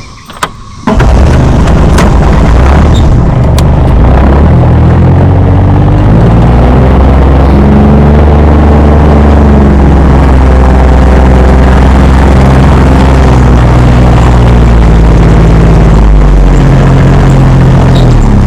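Vehicle engine running loud and close, starting abruptly about a second in; its pitch rises and then falls again as it speeds up and slows down.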